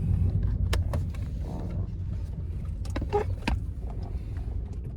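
Car interior road noise: a steady low rumble from a car being driven, with a few sharp clicks and knocks.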